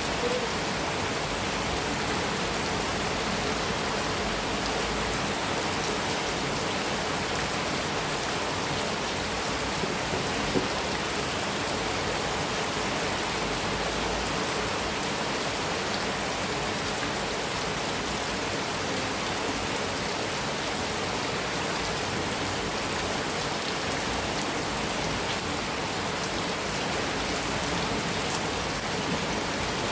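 Heavy rain falling steadily on a metal roof, an even hiss of drops with one sharper tap about ten seconds in.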